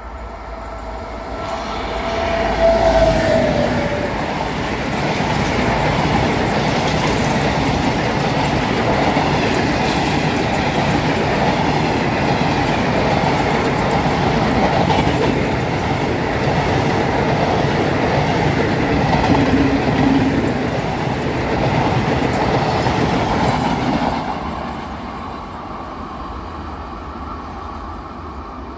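A long electric-locomotive-hauled passenger train passing close by. It grows loud within the first couple of seconds, with a short tone about three seconds in, runs loud for about twenty seconds, and then fades away.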